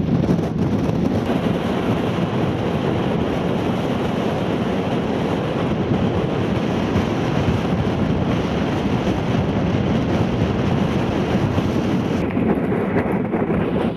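Wind buffeting the camera microphone: a steady, loud rumbling rush.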